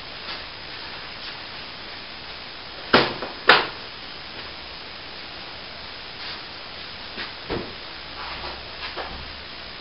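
Two sharp knocks about half a second apart, about three seconds in, then a few lighter knocks and clatters near the end, over a steady hiss.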